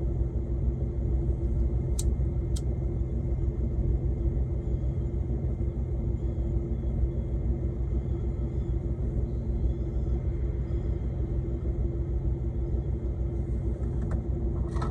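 Steady low rumble of an idling truck engine, heard from inside the parked cab, with two faint clicks about two seconds in.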